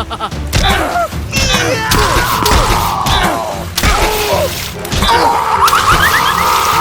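Cartoon sound effects: a series of crashes and thuds about a second apart, mixed with short whistling pitch glides and a held tone, over background music.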